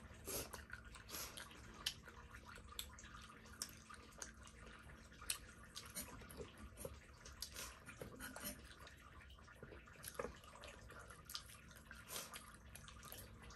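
Faint wet mouth sounds of people eating pork momo dumplings: irregular small smacks and clicks of chewing, scattered through.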